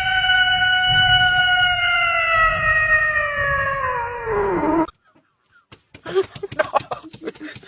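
An animal's long, drawn-out howl, held on one pitch and then sliding down before it stops about five seconds in. It is followed by scattered light clicks and knocks.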